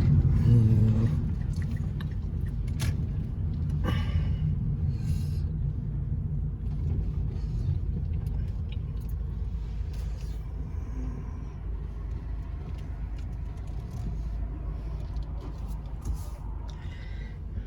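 A car's steady low engine and road rumble while driving, with a few light clicks and knocks, gradually getting a little quieter.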